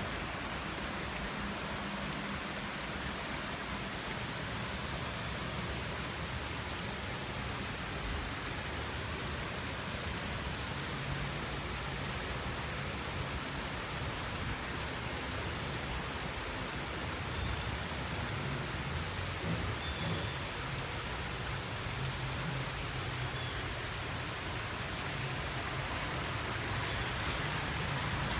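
Heavy rain falling steadily, a dense even hiss, with a low rumbling that comes and goes in the second half.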